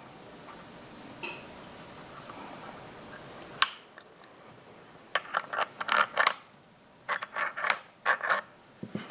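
Motorcycle exhaust pipe sections clinking and scraping metal on metal as they are worked together at the slip joints: a single sharp click, then two clusters of quick clinks with a high ring, in the second half.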